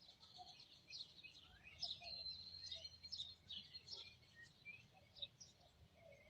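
Faint chirping of several birds picked up by a doorbell camera's outdoor microphone, with one thin whistled note held for about a second near the middle.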